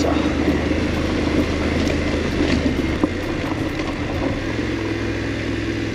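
BMW F850GS's parallel-twin engine running as the motorcycle is ridden slowly. Its low note changes about halfway through.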